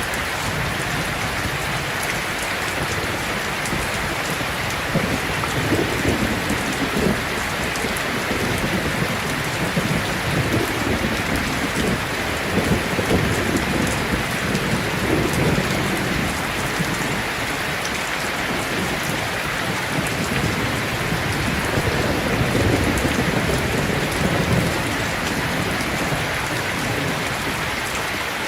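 Heavy rain falling steadily, with thunder rumbling low in long rolls from about five seconds in and again a little past twenty seconds.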